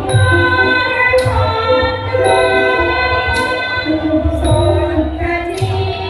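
Thai traditional ensemble music accompanying a lakhon nok dance-drama: sustained melodic notes over a sharp stroke that keeps time about once a second.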